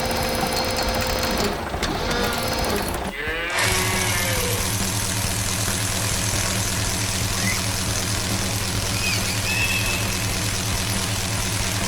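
Heavy logging machine's engine running steadily at an even pitch, coming in with an abrupt cut about three and a half seconds in; before the cut, steady tones with short pitch glides.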